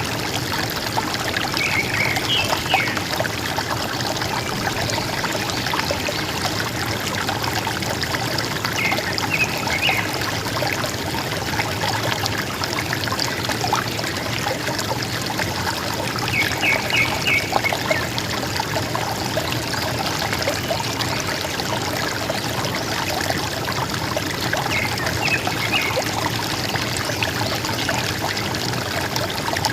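River water flowing and gurgling steadily. A bird calls over it with short runs of quick high notes, about every seven or eight seconds.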